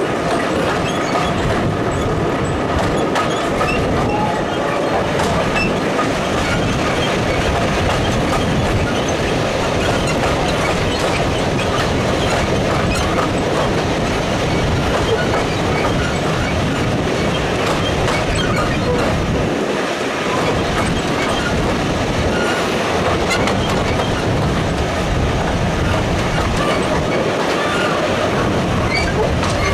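Diesel-hauled heritage train running steadily along the track, a continuous noise of wheels on rail.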